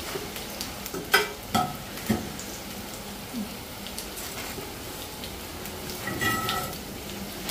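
Onion bhaji sizzling steadily as they fry in oil in a cast-iron skillet. A metal slotted spoon gives three short clicks against the pan, about one to two seconds in.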